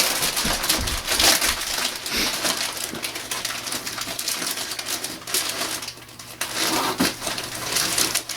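Wrapping paper crinkling and tearing as a dog paws and chews at a wrapped present, with a dip in the crackling about six seconds in.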